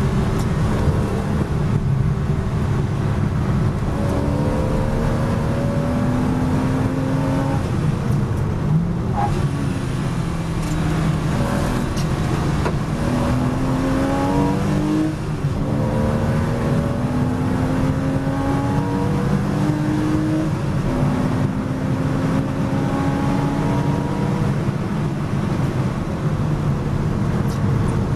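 Porsche Boxster S race car's flat-six engine, heard from inside the cockpit at racing speed. Its pitch drops as the car brakes and shifts down about eight to ten seconds in, then rises again through a series of upshifts as it accelerates hard.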